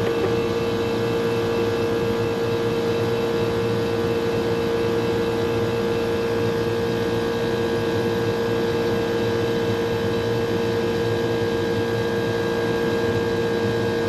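Rooftop air-conditioning unit running on one of its two compressors: a steady mechanical hum with a strong, even tone, unchanging throughout.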